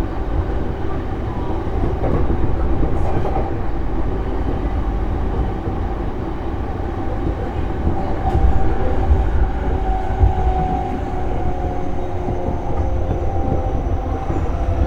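E233 series electric train running, heard from inside the passenger car: a steady rumble of wheels on rail and running gear. Faint steady tones sit over the rumble, and a faint whine rises near the end.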